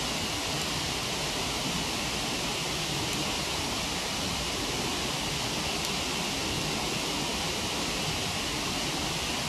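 Waterfall rushing: a steady, even roar of falling water with no let-up.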